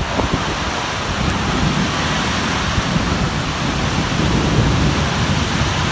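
Storm rain and wind: a loud, steady, dense hiss with a low rumble underneath.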